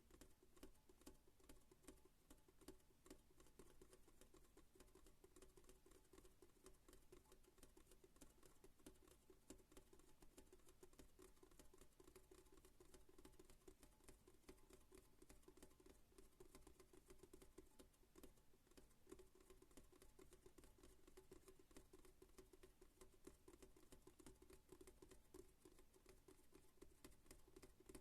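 Fast, light ASMR tapping: a quiet, unbroken stream of small clicks and taps with no pause.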